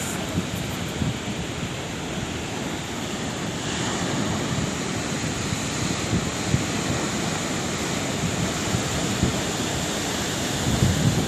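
Sea surf washing continuously onto the shore, a steady rush with irregular low rumbles. The hiss grows brighter about four seconds in as a wave breaks.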